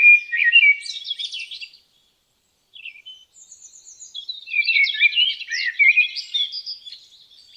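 Several forest songbirds chirping and singing in short, overlapping high-pitched calls. The sound cuts to silence for about a second around two seconds in, then the calls return, busiest a little past the middle.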